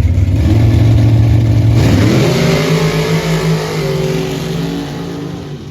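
Dirt drag race truck engine running loud at steady revs, then climbing in pitch about two seconds in as it accelerates hard, and fading toward the end as it pulls away.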